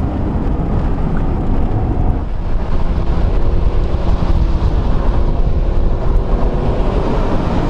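Car engine and tyre and wind noise from inside the cabin of a car driven on a race track, a steady loud rumble. The engine pulls harder from about two and a half seconds in, its note slowly rising as the car accelerates down the straight.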